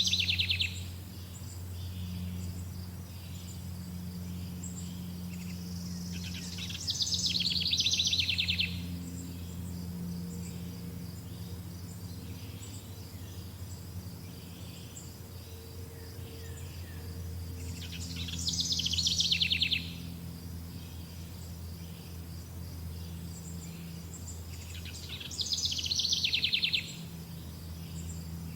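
A bird singing a short, fast trilled phrase about every eight to ten seconds, each phrase lasting a second or two. Under it runs a steady, high-pitched insect chirring and a low, steady hum.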